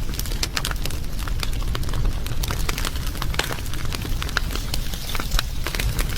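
Wood fire burning and crackling: rapid, irregular pops and snaps over a steady low rumble.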